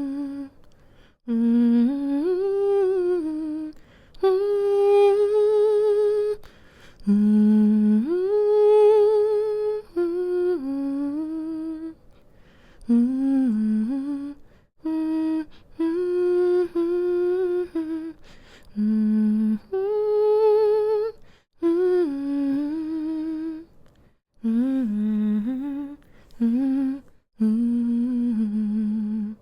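A woman humming a slow, soft lullaby melody in short phrases with brief breaths between them, her voice wavering gently in pitch.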